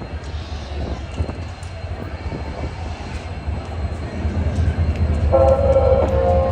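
Train rumbling low and steadily on the tracks with scattered clicks, then a train horn sounding loudly from about five seconds in.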